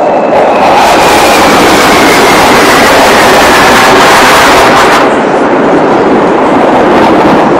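Military jet aircraft passing low overhead, a loud roar with an engine whine that falls in pitch as it goes by. The shrill upper part cuts away about five seconds in, leaving a lower rumble as the jets move off.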